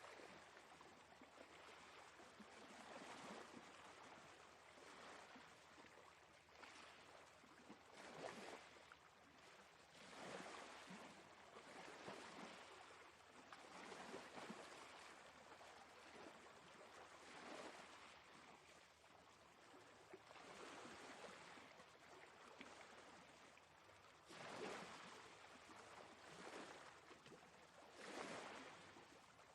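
Faint sea waves washing in over and over, a hiss of water that swells and falls back every couple of seconds.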